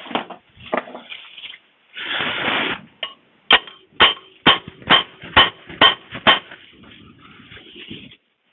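Hand tool working a metal part loose on a Komatsu PC30-3 excavator: a short scraping rustle, then seven sharp metallic knocks about two a second, each with a little ringing.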